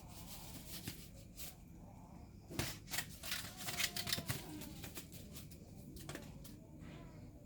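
Rustling and scratching, with a cluster of louder sharp scrapes and clicks in the middle.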